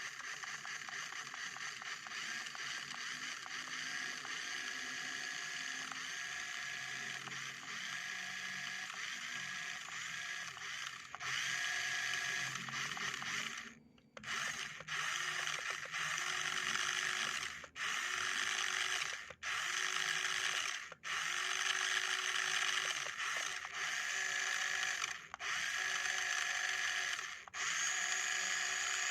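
Electric drive motor and gearbox of a radio-controlled cargo truck, whining steadily. In the second half the drive cuts out briefly and picks up again several times.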